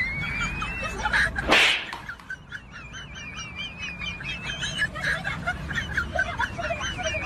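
Birds chirping rapidly in a continuous run of short high warbling calls, with one loud, sudden burst of noise about a second and a half in.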